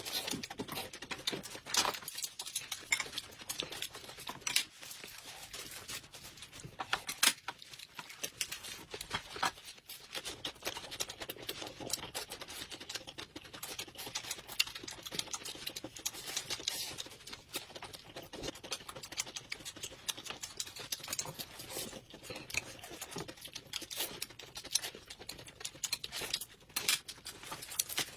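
Close-miked mukbang eating sounds: a dense run of small crackly clicks from chewing and handling food.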